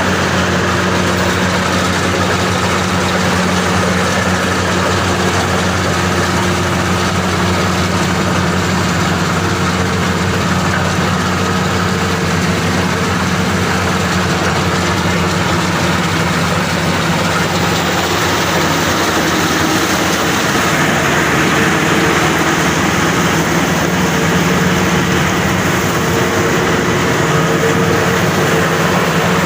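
Maxxi Bimo 102 SS rice combine harvester running steadily, its engine and machinery droning without a break, slightly louder in the second half.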